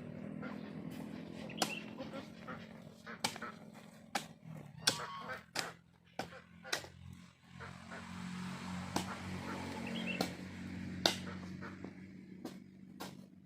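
Ducks quacking over a low steady hum, with scattered sharp knocks.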